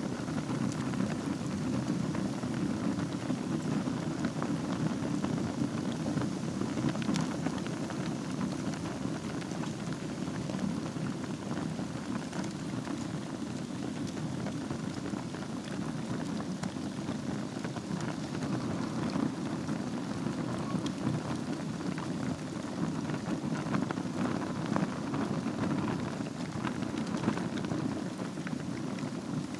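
Wood fire burning in a fireplace: a steady low rush of flame with many small crackles and pops throughout.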